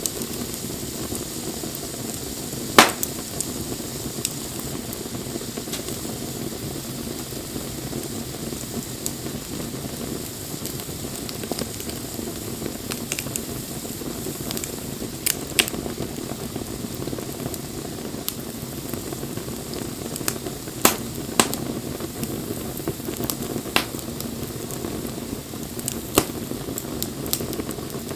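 Wood campfire burning: a steady hiss of flames with scattered sharp crackles and pops, the loudest about three seconds in.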